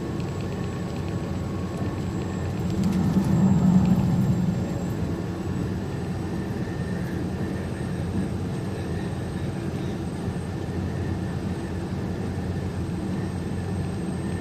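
Steady engine and road drone heard inside a truck's cab while driving at highway speed, swelling for a second or two a few seconds in.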